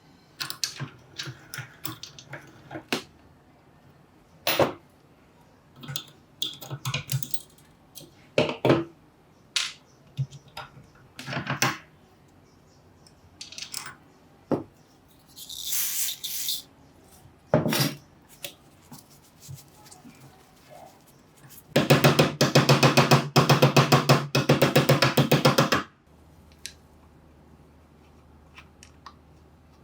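Scattered metal clicks and knocks of tool parts being handled, then about four seconds of loud, rapid, continuous impacts, typical of the Hitachi PR-50 rotary hammer drill running.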